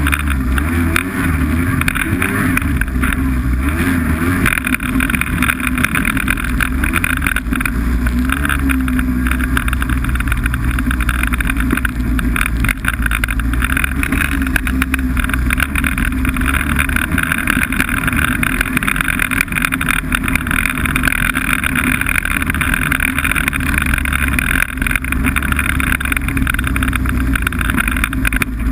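Snowmobile engine running steadily at cruising speed, a continuous loud drone with only small rises and falls in pitch.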